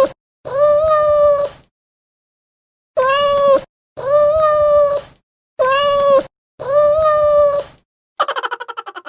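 Cat meow sound effect: a short meow then a longer one, the same pair played three times. About eight seconds in, a fast fluttering, pulsing sound starts and fades out.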